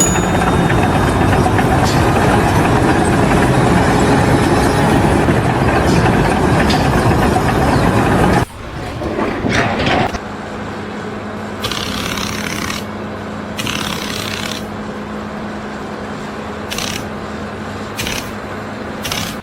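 Heavy machinery noise: a loud, dense engine rumble that cuts off abruptly about eight seconds in, followed by a quieter, steady engine hum with several short bursts of hiss.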